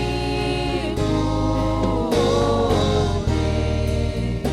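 Gospel praise music: a band with strong bass and keyboard chords under singers holding long notes between sung lines.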